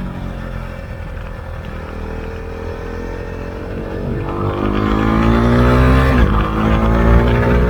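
Husqvarna Svartpilen 401's single-cylinder engine through an Akrapovic exhaust with the dB killer removed, heard from the rider's position. The engine note falls as it slows for the first two seconds, then rises and gets louder under acceleration, drops at an upshift about six seconds in, and climbs again.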